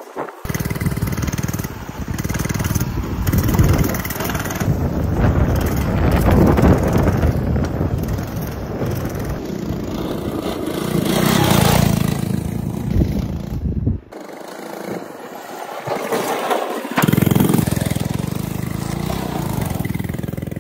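A 99cc four-stroke mini bike engine running under throttle while being ridden, its note rising and falling. The engine sound thins out for about three seconds around fourteen seconds in, then comes back.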